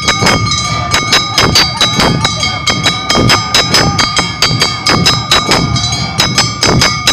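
Live Awa Odori festival music: a brisk, even beat of drum and gong strikes, about four a second, over steady ringing high tones.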